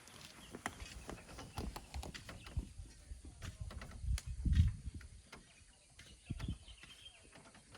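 Hand tools working sand and stones: irregular knocks and scrapes, with a heavier dull thump about four and a half seconds in.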